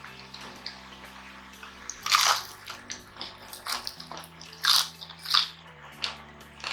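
Close-miked crunching and chewing of crispy deep-fried pork. Loud crunches come in a series from about two seconds in, with four strong ones and softer chews between them.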